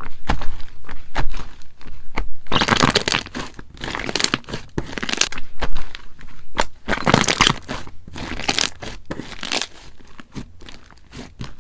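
Slime being squished, pressed and pulled by hand, giving crackling, crunchy and tearing sounds with many small pops and clicks and several longer crackly stretches.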